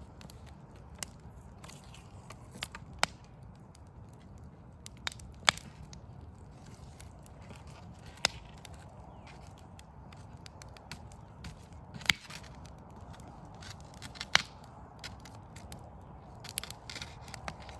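Wood fire of burning logs crackling, with sharp pops at irregular intervals, the loudest a few seconds apart, over a low steady background rumble.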